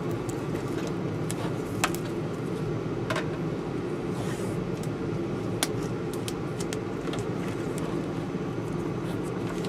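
A steady low mechanical hum, with scattered small clicks and taps over it and a brief hiss about four seconds in.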